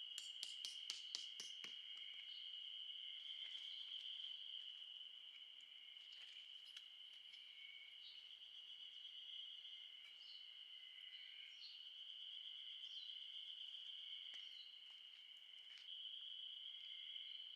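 Faint, steady high-pitched insect chorus. A quick run of clicks comes in the first two seconds, and short bird chirps are scattered through it.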